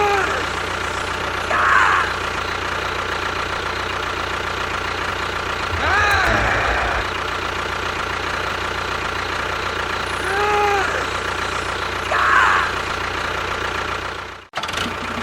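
An engine runs steadily, with a short knocking patch about six seconds in. Over it come about five short squeals that rise then fall. The engine sound cuts off suddenly near the end.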